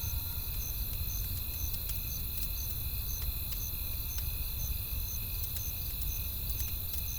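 Crickets chirping in a steady rhythm, about two chirps a second, with a steady high insect trill. Scattered sharp crackles of a wood fire sound over a low rumble.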